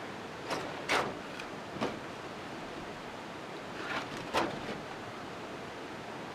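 Steady heavy rain hiss, broken by a few short, sharp knocks or clicks: three in the first two seconds and two close together about four seconds in.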